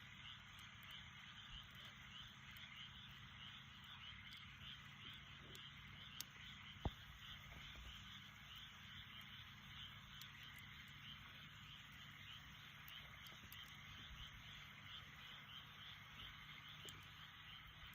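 Faint chorus of frogs calling steadily with a fast pulsing trill, over a low steady hum. A few scattered clicks from the campfire are heard, the loudest a sharp pop about seven seconds in.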